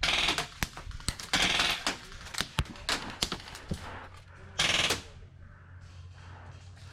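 Airsoft electric guns firing in full-auto bursts: three short rapid bursts, at the start, about a second and a half in and near five seconds, with single sharp shots in between.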